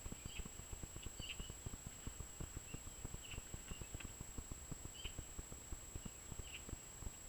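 A small bird chirping, short high calls every second or so, over a rapid, irregular low tapping that is the loudest sound throughout.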